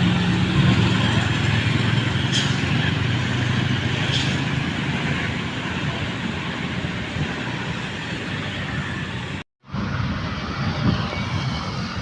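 Passing road traffic: a truck's engine hums low for the first few seconds over a steady rush of tyres and wind. The sound drops out for a moment about nine and a half seconds in, then the traffic rush returns, rougher.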